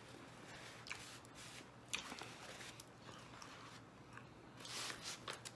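Faint close-up mouth sounds of a man chewing food, with small wet clicks and smacks.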